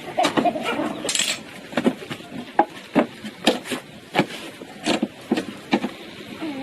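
Irregular sharp knocks and clacks of hard objects being struck or handled, about two a second, with some clatter between them.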